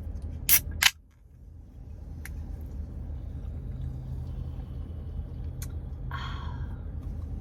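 A drink can being cracked open: two sharp snaps of the tab under a second in, over the steady low hum of a car's running engine. A short rustling burst comes about six seconds in.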